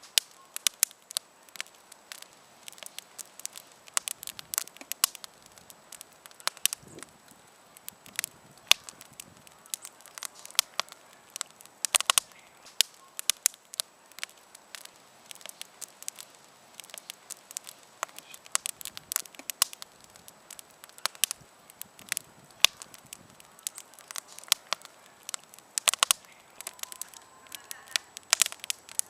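Wood campfire crackling, with frequent irregular sharp pops and snaps over a faint low hiss.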